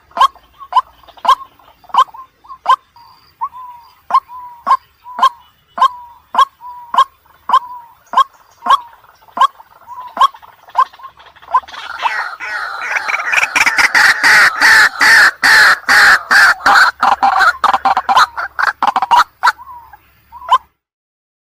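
White-breasted waterhen calling: a steady run of short clucking notes, a little under two a second, swells about twelve seconds in into a loud, rapid, harsh chorus of calls that breaks off abruptly near the end.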